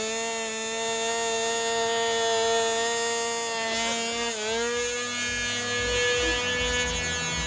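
Radio-controlled model aircraft's motor and propeller running at speed in flight, a steady whine. About four seconds in the pitch dips briefly, then comes back slightly higher.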